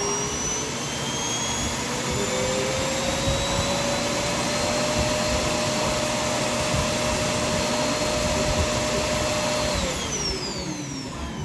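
Roomba i7's Clean Base dock self-emptying the robot's bin: its suction fan runs with a loud rushing whine that keeps rising in pitch for the first few seconds, holds steady, then winds down about ten seconds in.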